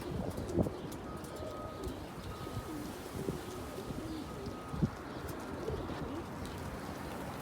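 Domestic pigeons cooing: a run of low, wavering coos repeating through the middle stretch.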